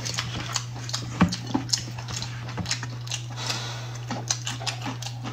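Wet chewing and lip-smacking of a person eating, as short irregular clicks over a steady low hum.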